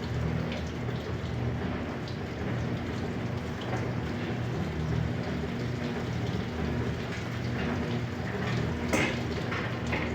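Electrolux LPE16 washing machine running, water splashing and spraying in the drum over a steady motor hum, with a louder splash about nine seconds in.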